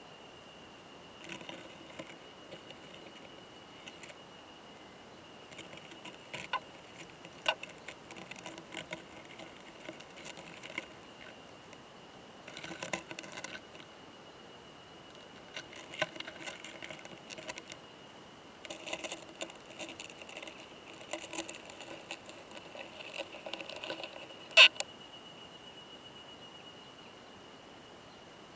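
Close-miked clicking and scratching from a mating pair of large trogossitid beetles (オオマダラコクヌスト), in irregular bursts with one sharp, loud click near the end, over a steady faint high tone. The title credits the male with a hard 'kan kan kan' clicking during mating.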